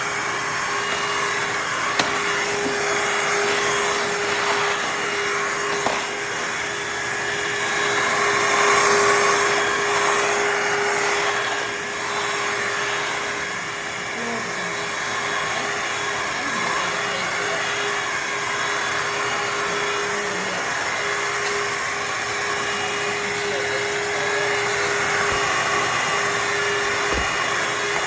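Shark HydroVac cordless wet-dry vacuum mop running steadily: a motor whine with one steady tone over rushing suction, swelling a little about nine seconds in.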